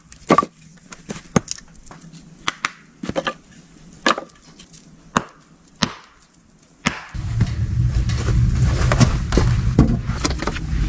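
A few scattered sharp cracks, then about seven seconds in a steady, dense bubbling starts: stew coming to a simmer in a covered cast iron pot.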